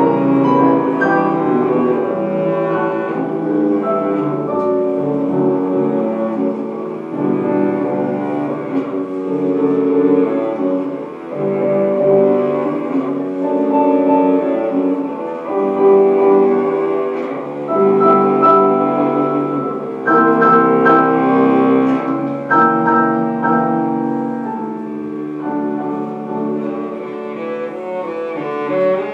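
Live classical music: a bowed string instrument playing sustained melodic notes with piano accompaniment.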